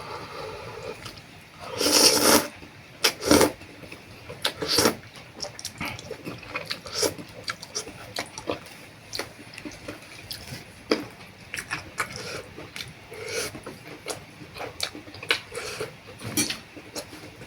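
A person eating noodle soup: slurping and chewing, with many short clicks and smacks, and a loud slurp about two seconds in.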